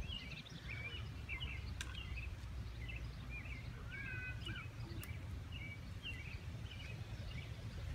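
Small birds chirping in quick, repeated calls, with one longer whistled note about four seconds in, over a steady low background rumble.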